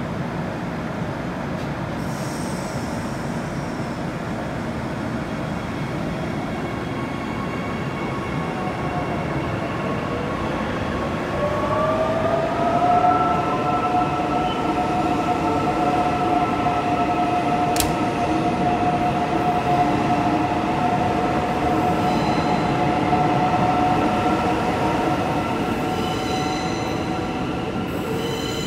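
A Queensland Rail train moving through the station with a steady rumble of wheels on track. About ten seconds in, a tone rises in pitch and then holds as a steady high whine for some fifteen seconds. A single sharp click comes partway through.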